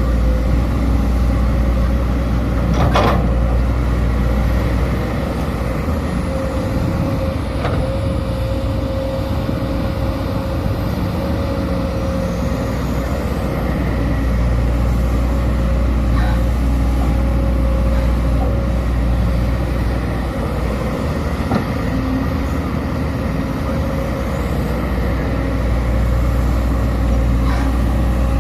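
Sumitomo SH210 hydraulic excavator's diesel engine running steadily under working load, with a steady whine over the engine and a few sharp knocks.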